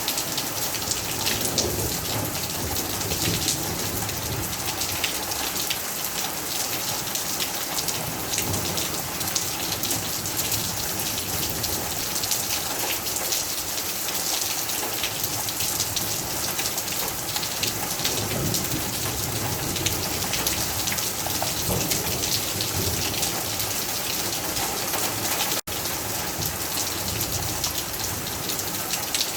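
Heavy rain falling steadily, a dense hiss of countless drops hitting surfaces, with a brief dropout about 25 seconds in.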